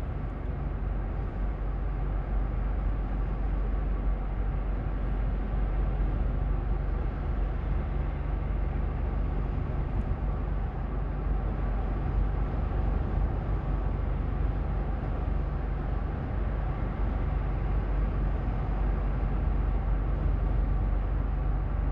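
Steady road and engine noise inside a moving car's cabin, a low hum under an even rush with no break or change.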